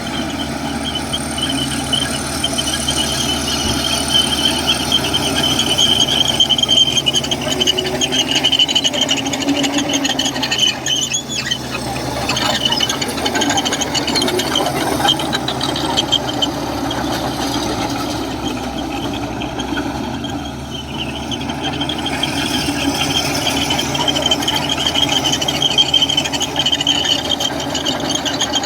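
Komatsu crawler bulldozer working, its diesel engine running steadily under a high metallic squeal from the steel tracks and undercarriage that rises and falls throughout.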